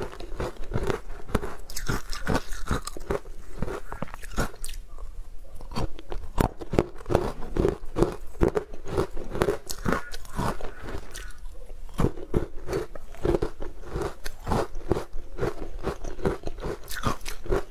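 Close-miked chewing and crunching as a person eats green-powder-coated food cubes, with quick, irregular crisp crunches several times a second throughout.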